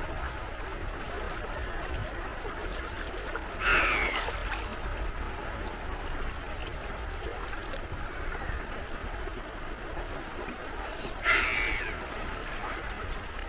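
Two loud, harsh gull calls, one about four seconds in and one near the end, over a steady wash of sea waves.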